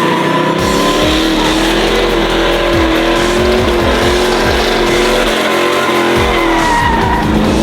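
Engine held at high revs during a burnout, its pitch wavering, with spinning tyres squealing and hissing.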